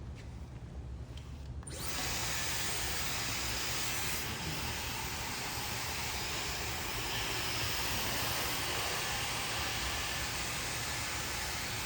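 Hair dryer switched on about two seconds in, then blowing steadily.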